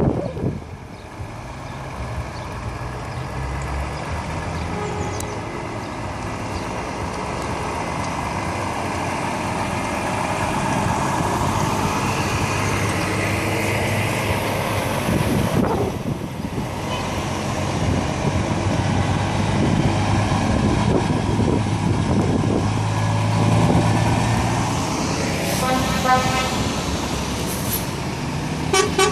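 Heavy truck engines running as lorries pull away and pass by. A truck horn sounds briefly near the end.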